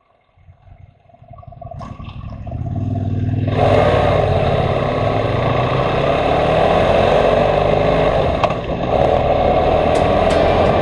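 Motorcycle engine running, growing louder over the first few seconds and then holding steady, with a brief dip about eight and a half seconds in.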